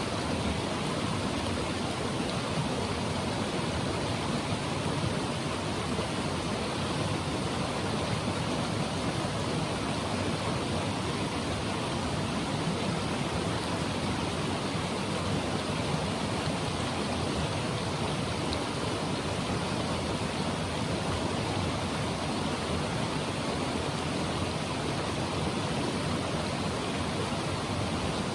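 Clear mountain stream in a gorge flowing with a steady, even rush of water.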